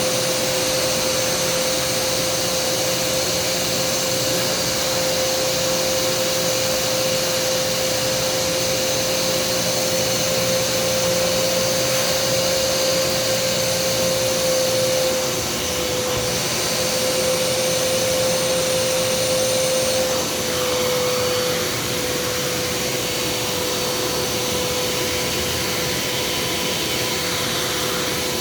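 Kärcher SE 4001 spray-extraction vacuum cleaner running steadily on carpet, a continuous motor whine that dips slightly in pitch twice past the middle as the load on the nozzle changes.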